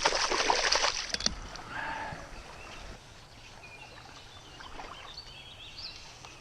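Water splashing and sloshing for about a second as a fish is released back into a creek, ending with a sharp splash; then only the quiet wash of the stream.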